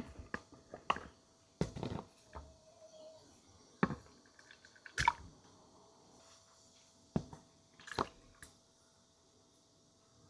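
Kitchen food-preparation handling sounds: irregular light knocks, clicks and scrapes of utensils and containers, with some wet squishing of food, over a faint steady hum.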